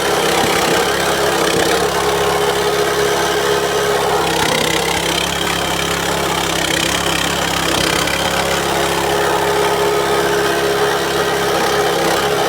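Grinding machine for cassava running steadily, a loud, even machine hum that holds the same pitch throughout.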